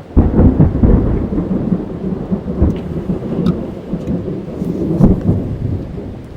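A thunderclap breaks in suddenly just after the start and rumbles on, slowly fading, over heavy rain drumming on a car's roof and windows, heard from inside the car.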